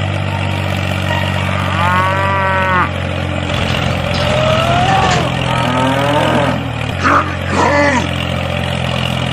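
Farm animals calling, including cattle mooing, in several separate calls, over a steady low tractor engine hum.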